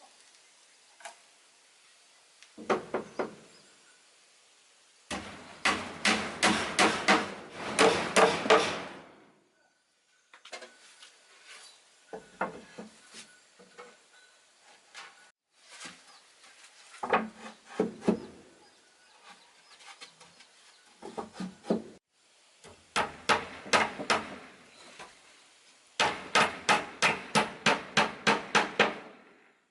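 Hammer striking wood in quick runs of about three to four blows a second, with pauses between the runs.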